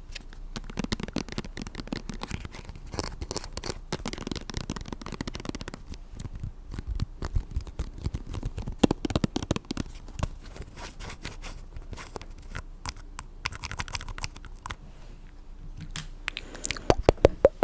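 Close-miked ASMR trigger sounds: dense, rapid crackling, rubbing and clicking, with a run of louder clicks near the end.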